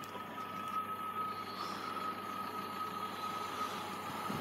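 Class 144 Pacer diesel multiple unit approaching in the distance: a steady rush of running noise that slowly grows louder, with a thin steady high tone running through it.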